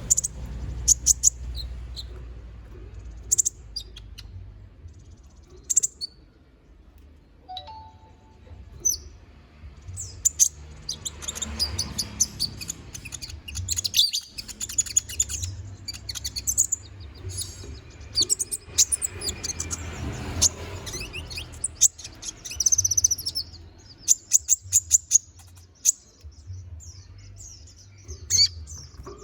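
Konin (kolibri ninja), a small sunbird, singing energetically in bursts of sharp, high-pitched chirps and fast trills, with short gaps between phrases, over a low steady hum.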